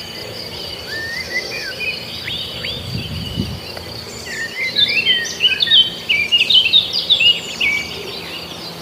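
Birds singing over a steady high-pitched insect drone; the birdsong turns into a busy run of quick chirps from about halfway through.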